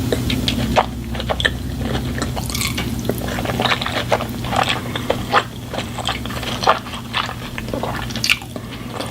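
Close-miked eating sounds: a person chewing wet food, with many short, sharp mouth clicks, over a steady low hum.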